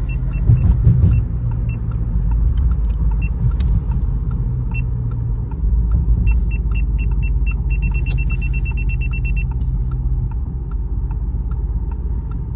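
Audi RS7 Performance's twin-turbo V8 running, heard from inside the cabin as a steady low rumble, with a brief louder surge about half a second in. Short, evenly spaced high ticks repeat over it at times, most densely near the two-thirds mark.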